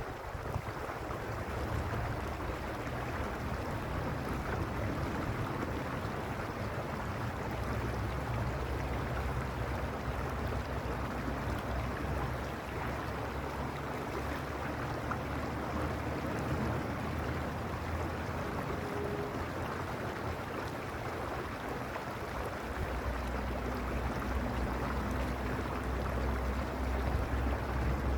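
Mountain stream rushing steadily over stones. A low rumble swells and fades under it and is strongest near the end.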